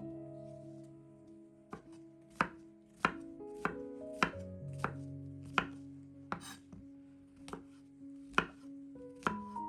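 Knife chopping food on a cutting board, with sharp, uneven strokes about one or two a second. Soft background music with held chords runs underneath.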